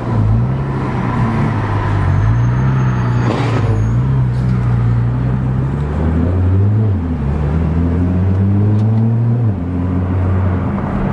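A car engine running loud and close, its pitch climbing and easing off several times. The pitch dips sharply about seven seconds in and falls back about two and a half seconds later.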